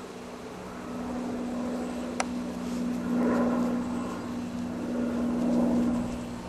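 Robinson helicopter flying over: a steady droning hum that swells louder twice, with a single sharp click about two seconds in.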